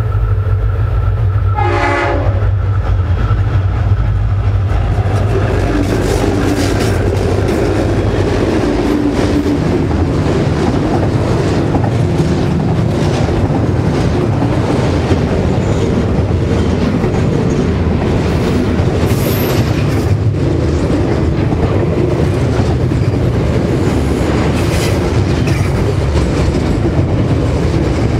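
Diesel-electric locomotives leading a container freight train pass close by with their engines running, and a short horn blast sounds about two seconds in. The container wagons then roll past with a steady rumble and the clickety-clack of wheels over rail joints.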